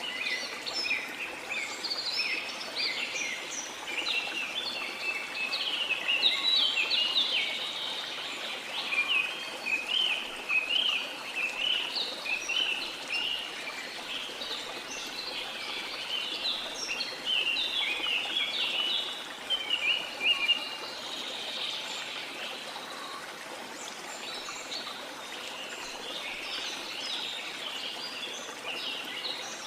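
A flock of small birds chirping and twittering densely and continuously over a steady wash of the sea.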